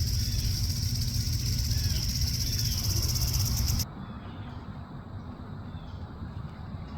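Outdoor dawn ambience: a steady, high, pulsing insect chorus with a bird chirping about once a second over a low rumble. About four seconds in, it cuts off abruptly to a quieter background with faint bird chirps.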